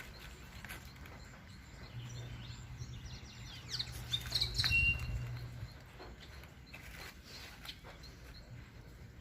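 Birds chirping: a brief cluster of quick sweeping calls and one short held note about four to five seconds in.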